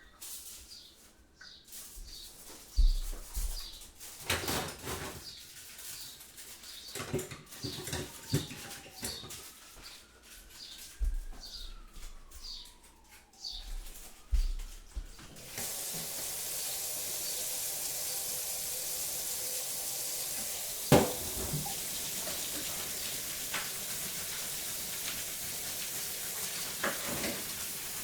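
Kitchen clatter of crockery and utensils, scattered clinks and knocks, with birds chirping in regular short notes. About halfway through, a steady hiss of running water sets in and continues under a few sharp clinks.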